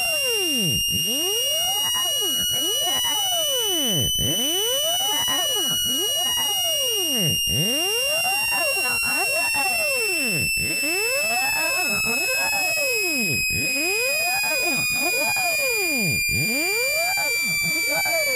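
Synthetic speaker-cleaning tone, played to vibrate water out of a phone speaker. A loud, high, steady electronic tone drifts slightly in pitch, overlaid with sweeping tones that glide down and back up about every three seconds.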